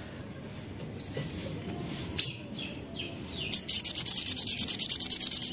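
Little spiderhunter (sogok ontong) calling: a single sharp high call about two seconds in, then from about three and a half seconds a rapid, high-pitched run of repeated notes, around ten a second.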